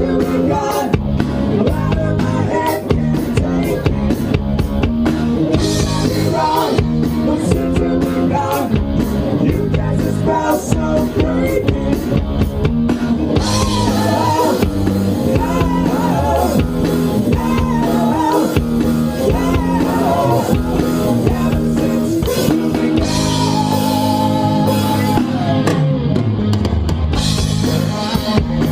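Live rock band playing an instrumental passage: drum kit and electric guitar, loud and continuous.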